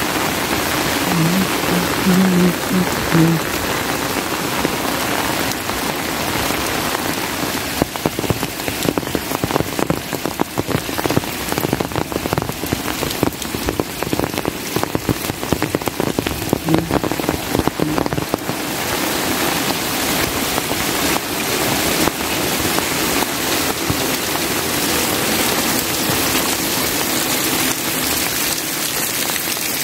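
Steady heavy rain falling, with a stretch of close, dense drop impacts from about eight to eighteen seconds in. A few short low tones sound about two to three seconds in.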